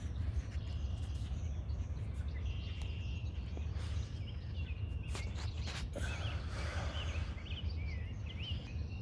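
Outdoor riverside ambience: a steady low rumble with scattered clicks, and small birds chirping, a run of quick chirps in the second half.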